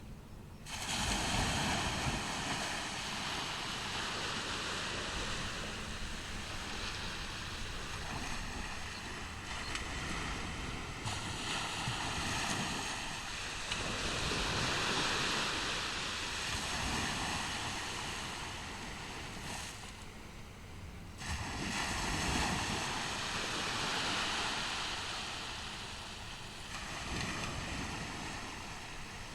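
Surf on a sandy beach: waves break and wash up the shore in swells. There is a sudden surge about a second in and another about two-thirds of the way through, each easing off slowly.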